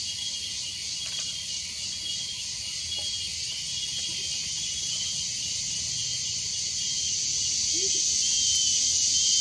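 A blue-crowned motmot giving a low, soft double hoot about eight seconds in, with a fainter hoot about four seconds in. Both are heard over a steady high insect chorus that grows louder toward the end.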